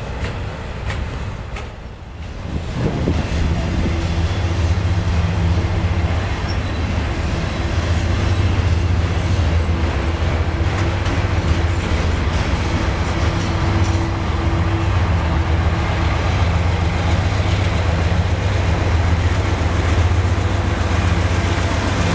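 Freight train rolling past with steel wheels clattering over the rail joints. About three seconds in, the steady low drone of a diesel locomotive engine under power joins and holds.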